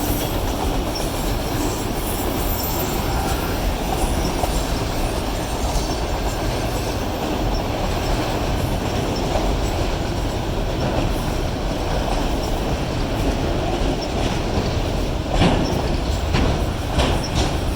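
Autorack freight cars rolling past on the rails, a steady loud noise of wheels on track, with a couple of sharper knocks near the end as the last cars go by.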